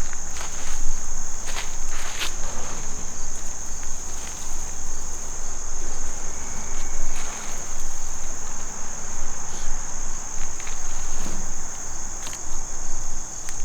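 Insects, such as crickets, keeping up a steady high-pitched trill, with a few footsteps crunching in the first couple of seconds.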